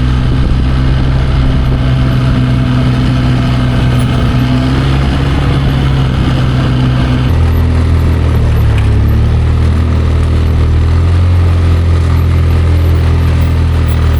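ATV engine running steadily under way. Its note drops to a lower steady pitch about seven seconds in.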